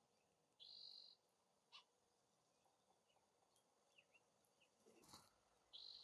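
Faint wild birdsong: two flat, high, whistled notes about half a second long, one near the start and one near the end, with scattered short chirps between them. A brief rustle comes just after five seconds.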